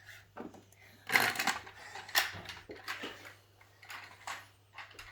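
Plastic toys being handled: several short knocks, clatters and rattles, the loudest about a second in.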